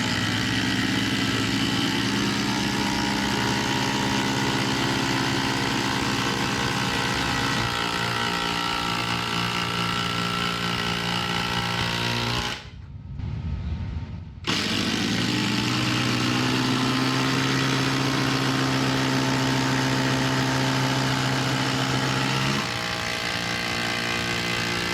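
Two cordless impact drivers run at full speed side by side in a race. Each heat has a steady motor whine, and one driver stops a few seconds before the other. The pair then stop together, and after a short break a second heat starts and ends the same way.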